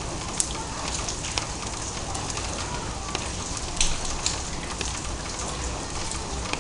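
Light rain, a drizzle, falling: a steady hiss of rain with scattered sharp ticks of single drops landing, a few of them louder.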